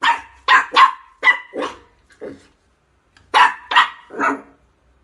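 A dog barking: a quick run of five or six barks, a pause of about a second, then three more barks.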